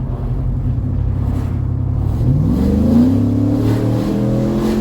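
Chevrolet Silverado's 6.2-litre V8 running through a Walkinshaw full exhaust system. It cruises steadily at first, then accelerates about two seconds in, the exhaust note climbing in pitch, and begins to drop back right at the end.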